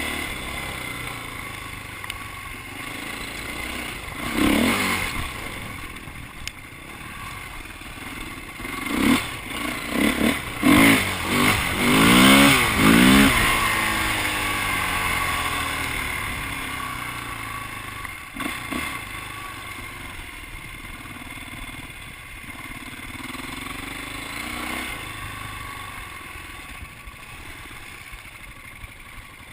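Dirt bike engine revving up and down as it rides by, loudest in a string of quick revs about nine to thirteen seconds in, then running more steadily and quieter.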